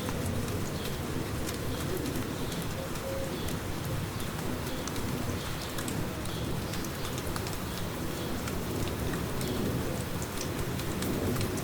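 Steady light rain with the ticking of single drops, while a pigeon coos now and then and a small bird chirps at intervals.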